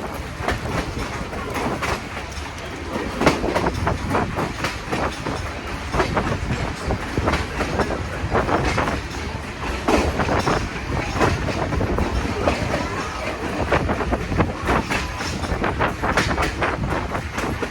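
A passenger train rolling along the track, heard from aboard: a steady rumble with irregular clacks and knocks from the wheels and cars.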